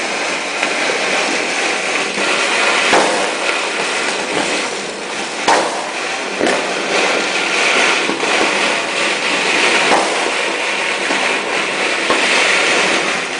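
Massed fireworks and firecrackers going off non-stop across the city: a dense, continuous crackle of distant explosions, with louder nearby bangs about 3, 5.5 and 10 seconds in.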